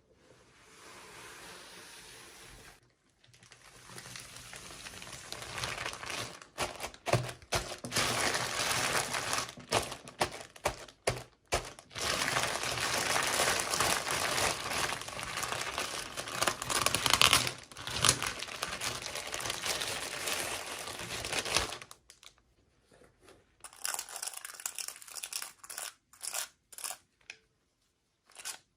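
Toy packaging being crinkled and torn open by hand. The rustling is faint for the first few seconds, then grows into a long stretch of dense crackling with sharp snaps, and breaks up into a few scattered short crinkles and clicks near the end.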